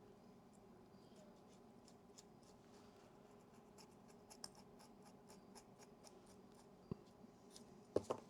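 Faint scratching and light ticking of small-scale handwork, scrubbing corrosion out of a camera's battery compartment. A sharper knock comes about seven seconds in, and a pair of louder clicks near the end.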